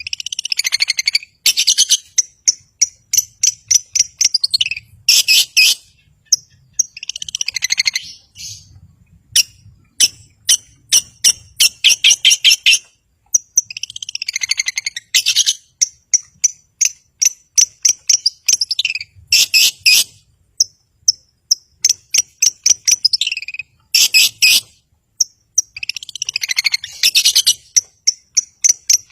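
Long-tailed shrike (cendet) singing continuously: rapid sharp notes and chattering phrases, with louder trilled bursts every few seconds.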